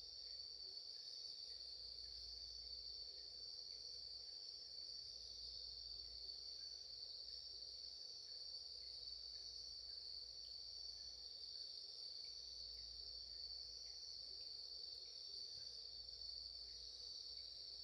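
A steady, unbroken high-pitched chorus of singing insects, with a few faint scattered crackles from a campfire.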